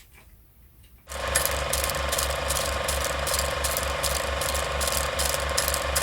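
Bachmann Class 47 model's LokSound V5 sound decoder playing its diesel locomotive engine sound. It is a steady, rhythmic mechanical running sound with a low beat about four times a second and a steady whine. It starts suddenly about a second in.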